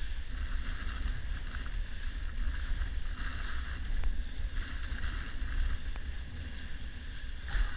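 Wind buffeting the microphone in a low rumble, over the hiss of breaking surf that swells and fades a few times.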